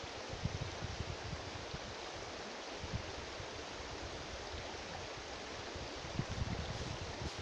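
River water rushing steadily, with gusts of wind buffeting the microphone as a low rumble.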